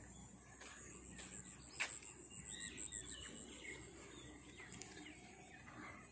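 Faint birdsong: a run of short chirping and warbling calls about two to three and a half seconds in, over a steady high-pitched whine. A few sharp light clicks come in the first two seconds, the loudest shortly before the calls begin.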